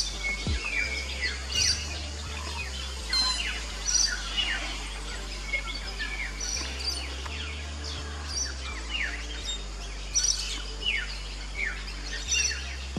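Fairy martins twittering: many short, quick chirps that slide downward in pitch, overlapping one another, over soft background music with low held notes.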